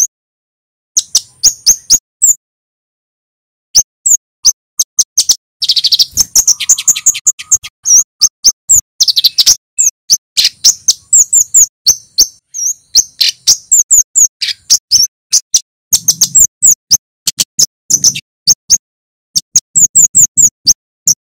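Male kemade flowerpecker calling: rapid, sharp, very high "cit" chirps in quick runs, with a brief pause about two seconds in and a couple of dry buzzy trills around the middle.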